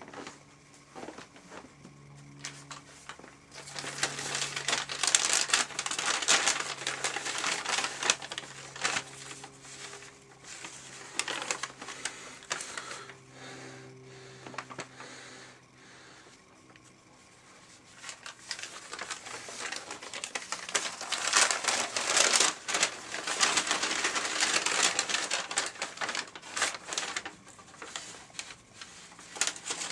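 Paper bags crinkling and rustling as they are handled, in two long stretches with quieter handling between.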